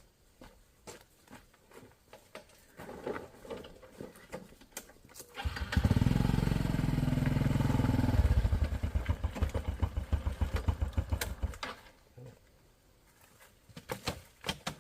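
Small motorbike engine starting about five seconds in and running with a fast, even beat for about six seconds, then fading away. Light clicks and rustles come before and after it.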